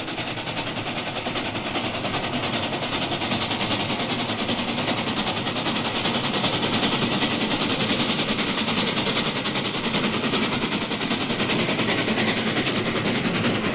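A train passing at speed, heard on an old 78 rpm sound-effects record: a steady, rapid rhythmic rumble and clatter that swells slightly toward the middle.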